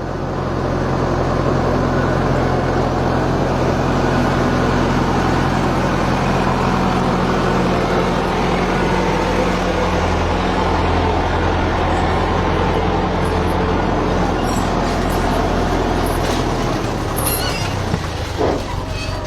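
A heavy vehicle's engine running steadily at a low idle, its note shifting near the end.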